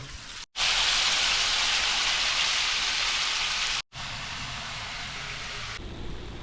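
Chicken deep-frying in hot oil, sizzling with a dense, steady hiss. Cut short twice by abrupt edits; the sizzle is loudest between the cuts and quieter afterwards.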